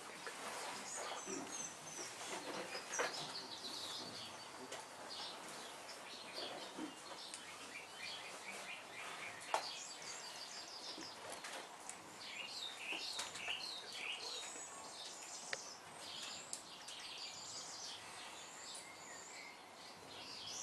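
Faint birdsong: several birds chirping and warbling on and off over a quiet, steady outdoor background hiss, with a few light clicks.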